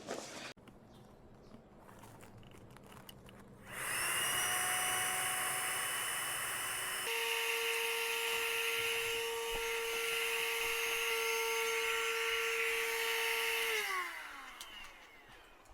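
A small electric motor starts suddenly and runs steadily for about ten seconds, changing note about three seconds after starting. It then stops and winds down with a falling whine.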